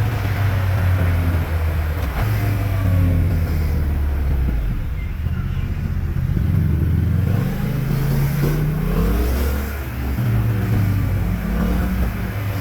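Yamaha MT-07's parallel-twin engine through a LeoVince underbody exhaust, pulling through the gears. The pitch rises and falls, eases off to a lower steady note in the middle, then climbs again twice near the end.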